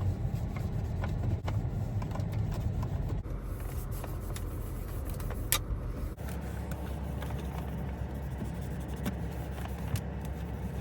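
A steady low hum whose sound changes abruptly about six seconds in, under faint rustling and light clicks from car-interior surfaces being wiped down.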